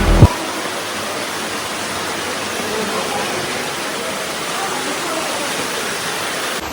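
Background music cuts off a moment in, leaving the steady rush of a waterfall's falling water.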